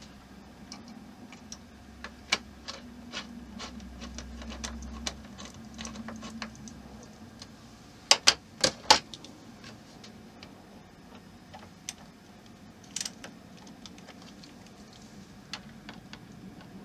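Scattered clicks and taps of small plastic and metal parts being handled and fitted on a model kit's display base, with a quick cluster of four sharp clicks about eight seconds in, over a steady low hum.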